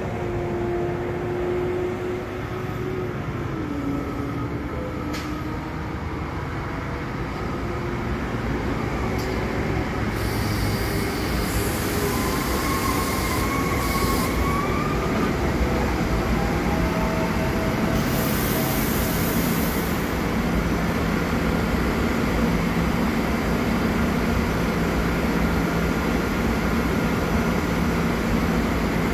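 SEPTA electric multiple-unit commuter train rolling into the station and slowing, its running noise growing steadily louder. High squeals and hissing come twice in the middle, and a steady low hum sets in as it slows nearly to a stand.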